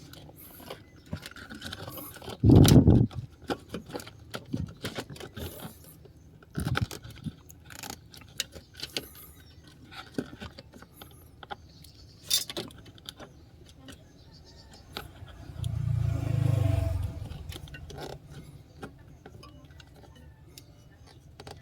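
Keys and small metal parts clicking and clinking as they are handled, with a loud thump a couple of seconds in and a brief low rumble later on.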